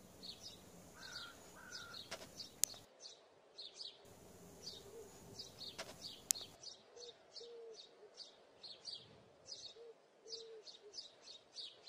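Small birds chirping faintly, with many short, high chirps repeating throughout and a few lower calls. Two sharp clicks come through, about two and a half seconds in and again about six seconds in.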